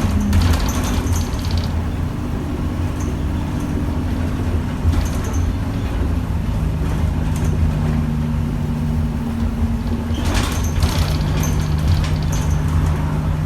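A single-deck bus's diesel engine running under way, heard from inside the saloon, with a steady low drone and a low tone that comes and goes. Short clicking rattles come near the start, about five seconds in, and again around ten to twelve seconds in.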